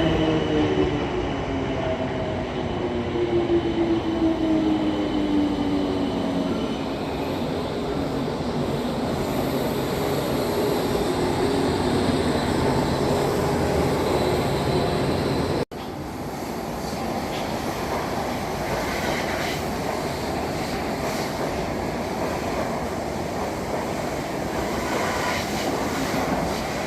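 A train running on the rails. A whine of several tones falls slowly in pitch over the first several seconds above a steady rumble. The sound drops out for an instant about two-thirds through, then the rumble picks up again.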